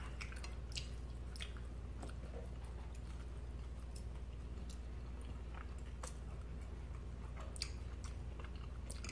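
Close-miked chewing and mouth smacks of people eating soft food, with scattered small clicks, over a steady low hum.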